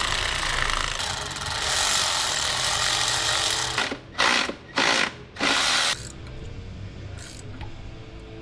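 A power tool run in one long pull of about four seconds, then in three short bursts, while work goes on on the truck's engine.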